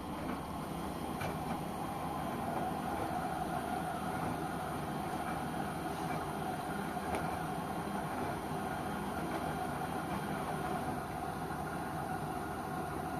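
LG washing machine running: a steady mechanical hum and whine, with a few faint clicks.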